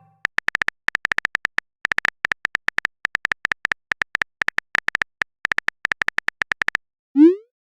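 A phone-keyboard typing sound effect: rapid short clicks in uneven bursts, several a second, for about six seconds. Near the end comes a short rising whoosh, a message-sent sound.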